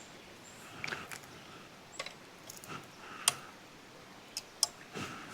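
A handful of faint, irregular ticks and small splashes in shallow stream water, with a low steady wash of the stream behind.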